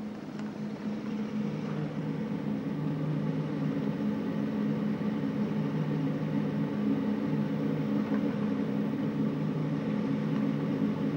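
Car engine running with a steady hum that grows louder over the first couple of seconds and then holds even.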